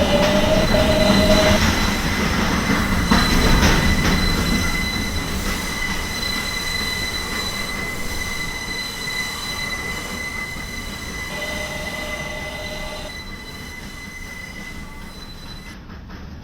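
New York City subway Z train running between stations, heard from inside the car: wheel and track rumble with a steady high-pitched whine, slowly getting quieter.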